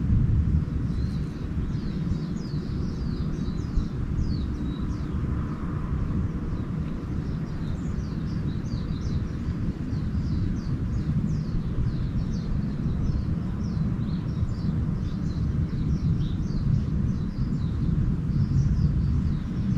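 Small birds twittering, a steady stream of short, high chirps, over a constant low rumble.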